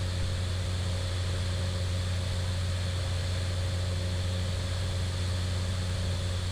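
Steady drone of a Cessna 208 Caravan's Pratt & Whitney PT6A turboprop engine and propeller, heard inside the cockpit with a strong low hum and a few steady higher tones. It is the aircraft rolling out on the runway at low power just after touchdown.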